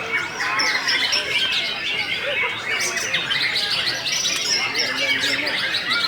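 Many caged songbirds singing at once in a songbird contest: a dense, unbroken chorus of overlapping chirps, whistles and trills.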